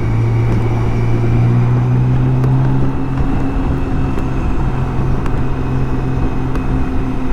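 BMW K1600 GTL's inline-six engine running at steady revs on the move, its pitch holding level, over a steady rush of wind and road noise.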